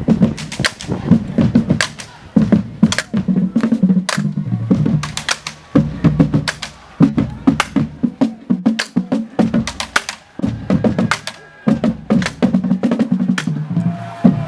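Marching band drumline playing a cadence: rapid, sharp snare hits over deep drums, in loud phrases with short breaks between them.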